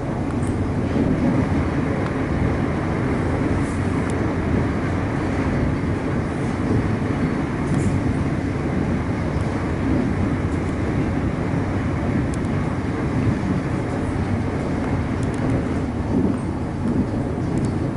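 Steady rumble of a suburban electric train running along the track, heard from inside the carriage.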